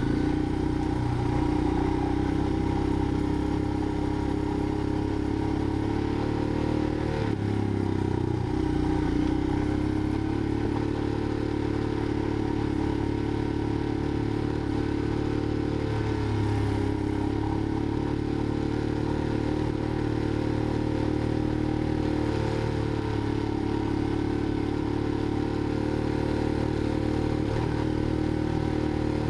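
Motorcycle engine running steadily under way, with some rattle. Its pitch dips about seven seconds in, then climbs back, as the throttle is eased and picked up again.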